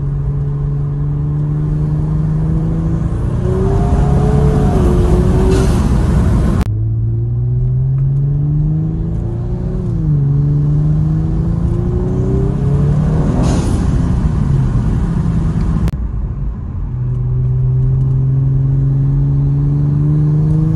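Kia Stinger's engine heard from inside the cabin under hard acceleration: its pitch climbs, dips at a shift and climbs again, several times over.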